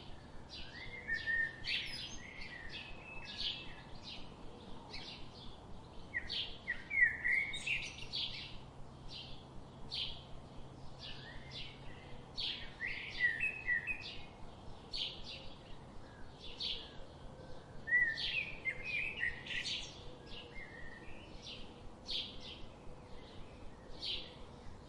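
Small birds chirping, a steady run of short, high chirps with fuller twittering phrases every few seconds.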